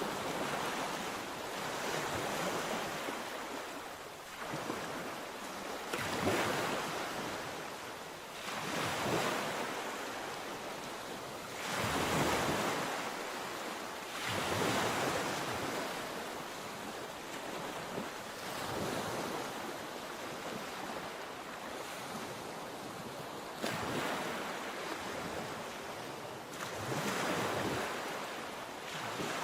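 Sea waves breaking and washing on the shore, swelling every few seconds. Wind buffets the microphone.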